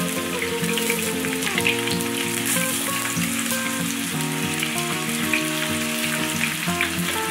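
Hot oil sizzling and crackling in a frying pan as thin potato slices are dropped in among frying onions. Background music with long held notes plays along with it.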